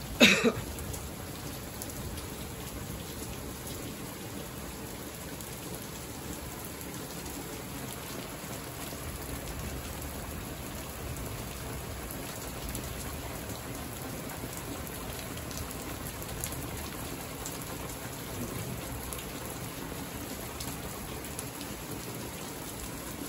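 Heavy rain falling steadily, an even hiss of rain on the surfaces around an awning. Just after the start there is one brief sharp sound, louder than the rain.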